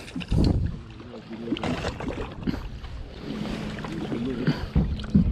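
Wind gusting on the microphone, with indistinct voices of other people in the background.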